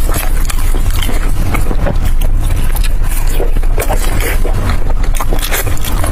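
Loud, close-up chewing and biting of food, with many irregular crisp crackles and wet smacks.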